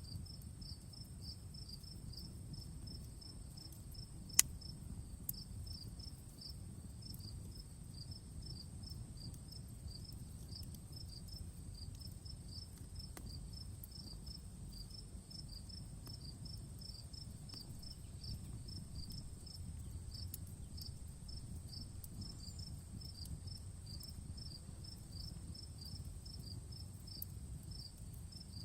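Crickets chirping in a steady, rhythmic pulse over a constant high insect trill, with a low rumble underneath. An outdoor campfire crackles faintly throughout, with one sharp, loud pop about four seconds in and a smaller one a second later.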